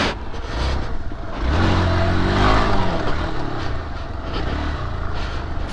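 Dirt bike engine on an off-road track, revving up about a second and a half in and then easing off, over a rough rushing noise.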